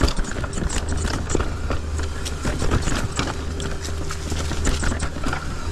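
Mountain bike riding over a rough dirt trail: frequent irregular rattling clicks and knocks from the bike over a steady low rumble.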